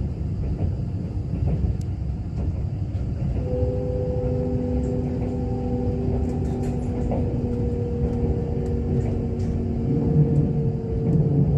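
Kintetsu limited express train heard from inside the carriage: a steady low running rumble. About three and a half seconds in, a steady whine of several tones joins it and holds to the end.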